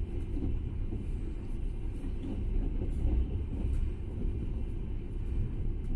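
Moving passenger train heard from inside the carriage: a steady low running noise of the wheels on the rails.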